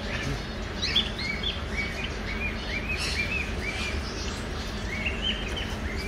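Caged birds chirping: a run of short, arched chirps, two or three a second, starting about a second in and thinning out near the end, over a steady low background hum.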